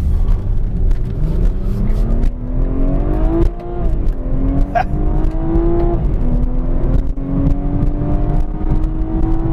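A 2016 BMW 340i's B58 turbocharged 3.0-litre inline-six pulling hard under acceleration, heard from inside the cabin. The engine note climbs, drops at two quick upshifts of the ZF 8-speed automatic (about three and a half and six seconds in), then rises slowly again.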